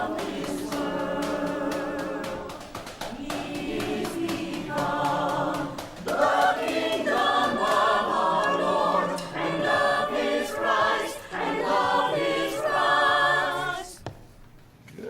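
Choir singing together in several parts with vibrato, in phrases, as a class rehearsing a song; the singing stops about a second before the end.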